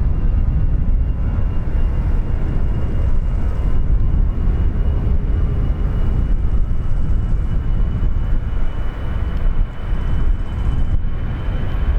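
Jet airliner engines running loudly: a deep rumble with a high whine that slowly rises in pitch.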